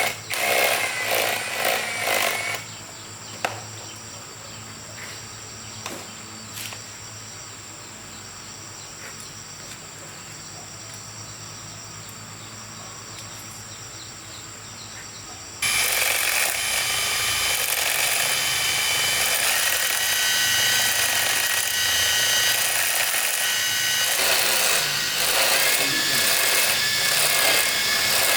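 Workshop power tool work. Broken bursts of tool noise come first, then a quieter stretch with a few sharp clicks, and about halfway through a power tool starts and runs steadily to the end.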